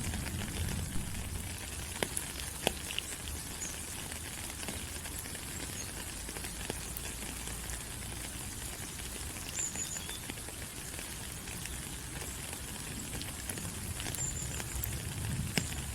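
Steady tropical rain falling on forest leaves, an even hiss with single drops pattering now and then. A few short, high chirps come through about a third of the way in and again near the end.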